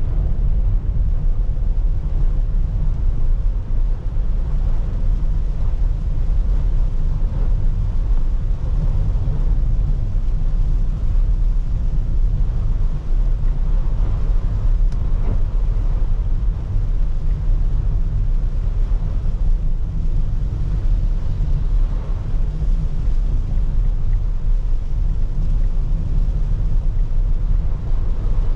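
A car driving in the rain, heard from inside the cabin: a steady low rumble of road and engine under a constant hiss of rain and wet tyres.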